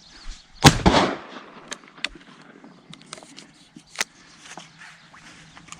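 A shotgun shot about a second in, a sharp crack with a brief echo tailing off. A few light clicks and brush rustling follow.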